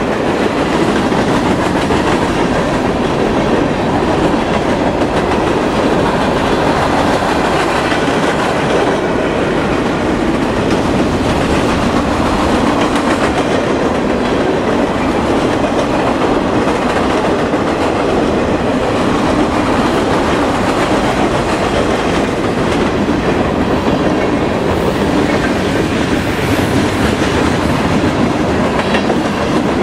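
Freight train cars rolling past close by, their steel wheels running on the rails in a loud, steady rumble that does not let up.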